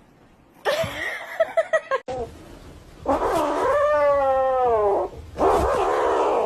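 A cat yowling: one long, wavering drawn-out call lasting about two seconds, falling in pitch at its end, after some shorter sounds.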